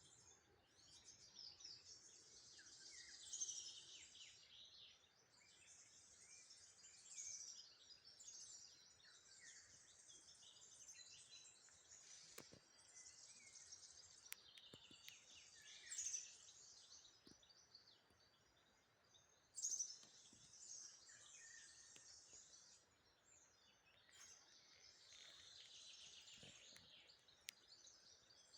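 A chorus of songbirds singing at once, faint and continuous: many overlapping high chirps and trills, with a few louder phrases standing out now and then.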